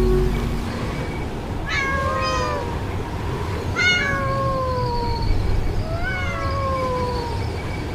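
A cat meowing three times, about two seconds apart, each call sliding down in pitch.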